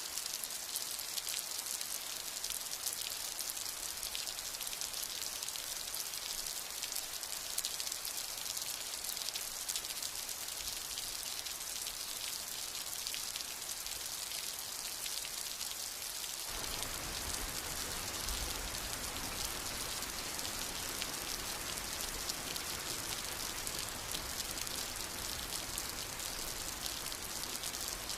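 Steady rain falling, a dense patter of drops. About sixteen seconds in the sound suddenly turns fuller and heavier, with a low rumble underneath.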